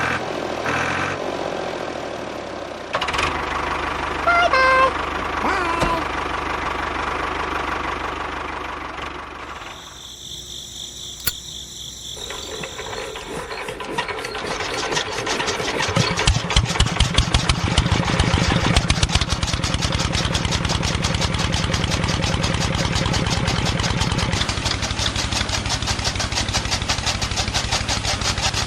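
A small motor running. About halfway through it settles into a fast, even chugging and gets louder.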